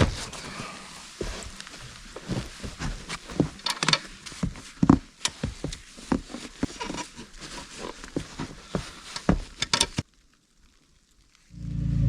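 Irregular knocks, taps and rustling of camp gear being handled and packed away. Near the end, after a sudden break, a vehicle engine starts running steadily.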